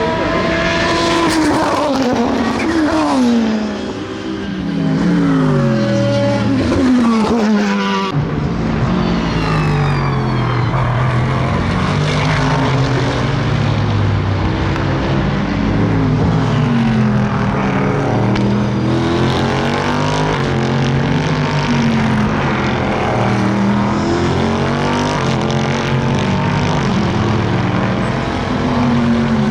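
SUPER GT race cars at speed: over the first few seconds several engine notes sweep down in pitch as cars go by, and from about 8 seconds in many race car engines run together, their pitches rising and falling with throttle and gear changes.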